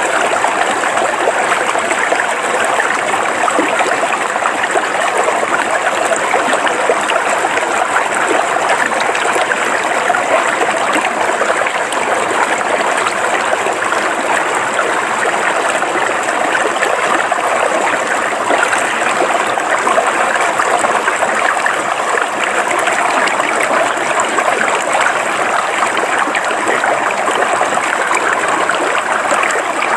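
River water flowing steadily over rocks, an even rushing with gurgling.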